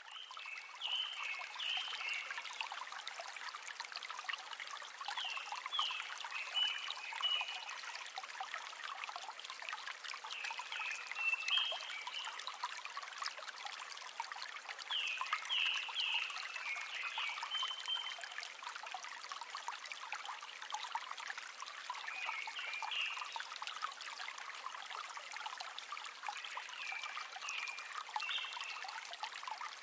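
Running water trickling steadily, with short high chirping calls from a small animal repeating about every five seconds.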